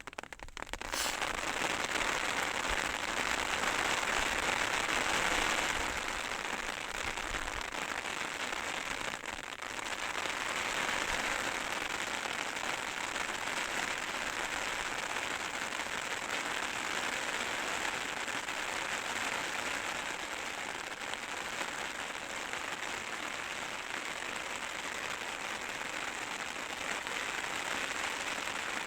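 Heavy rain falling on a large umbrella overhead: a dense, steady patter, a little heavier in the first few seconds.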